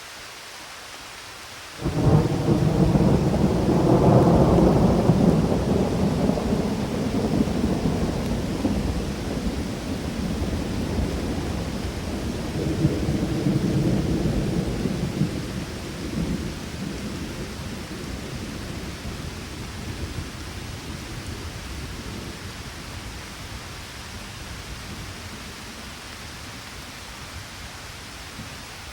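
Steady rain with a long roll of thunder that breaks suddenly about two seconds in, rumbles on with a second swell midway, and slowly dies away into the rain.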